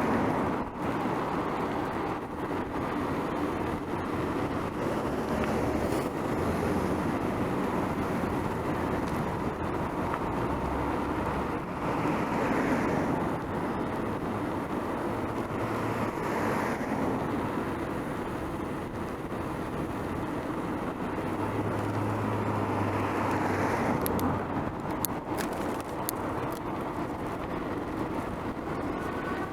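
Street traffic heard from a moving bicycle: a steady rush of road noise, with motor vehicles swelling past a few times.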